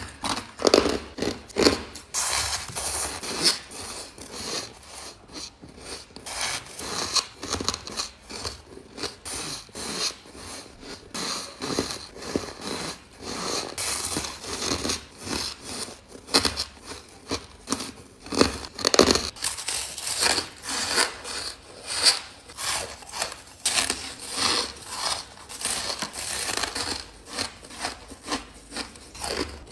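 Close-miked chewing and crunching of soft, powdery ice: a dense, irregular run of crisp crunches, several a second.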